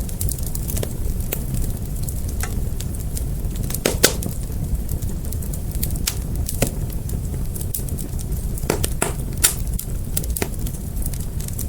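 Fire crackling: irregular sharp pops and snaps over a steady low rumble, with the loudest pop about four seconds in.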